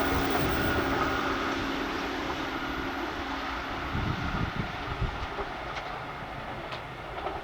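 Kintetsu electric train running past and moving away, its sound fading steadily, with a steady tone that stops about three and a half seconds in and a few low thuds after.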